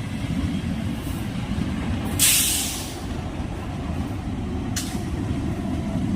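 Indian Railways EMU local passenger train with a steady low rumble. A loud burst of air hiss comes about two seconds in and lasts under a second, and a second, very short hiss comes near five seconds.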